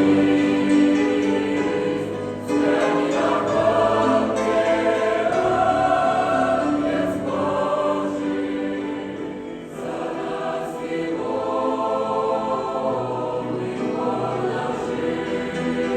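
A choir singing, long held harmonized phrases with short breaks between them about two and a half seconds in and again near ten seconds.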